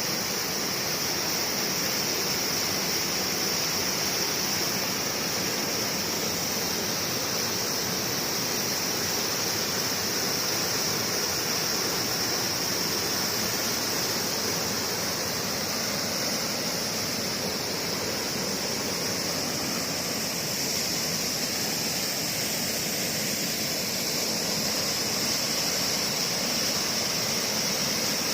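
Steady rushing flow of a stream or river, unbroken throughout, with a steady high-pitched hiss over it.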